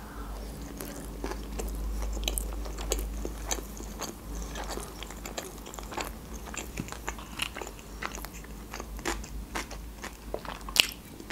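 A person chewing sushi rolls close to the microphone: many quick, sharp mouth clicks and small crunches, one louder one near the end.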